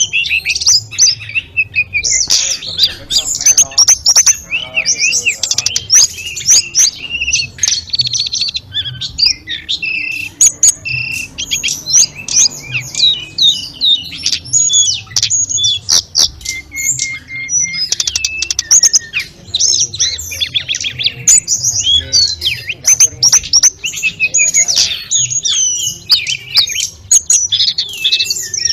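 A tledekan gunung (Sunda robin) singing a fast, unbroken run of high chirps and fluting whistles with hardly a pause.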